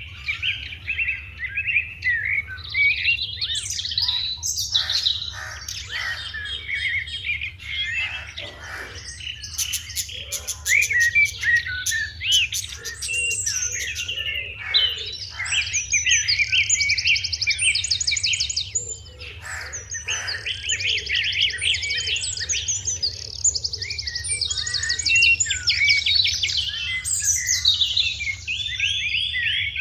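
A flock of sparrows chirping together: many short, overlapping chirps and rapid trills without a break, over a faint steady low hum.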